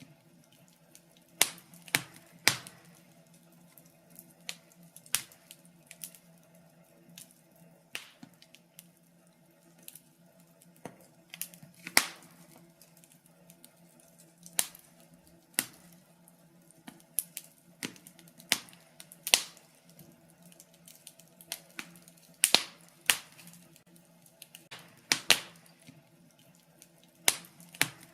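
Wood fire in a fireplace crackling, with irregular sharp pops, some louder than others, over a faint steady low hum.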